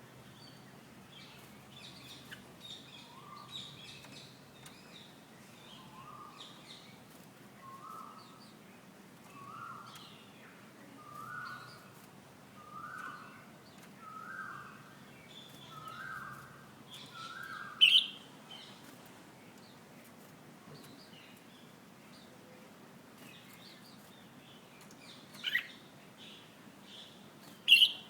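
Young red-whiskered bulbul (jambul) calling with short high chirps. Through the first two-thirds a lower note repeats about every one and a half seconds, each a little higher than the last. Later come three sharp, loud calls, two of them close to the end.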